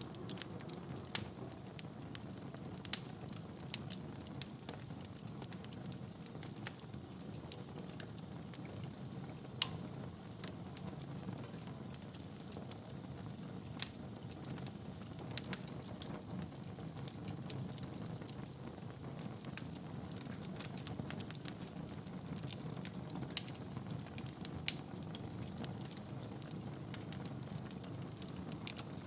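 Wood fire burning in a fireplace: a steady low rumble of flames with irregular crackles and an occasional sharper pop of burning logs.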